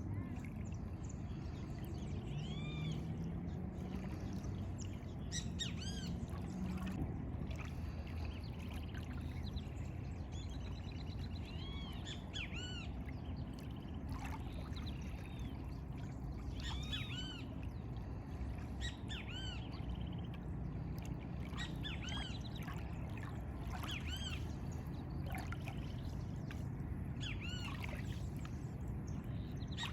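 Several birds calling outdoors, a dense series of short, arching chirps repeated irregularly throughout, over a steady low background rumble.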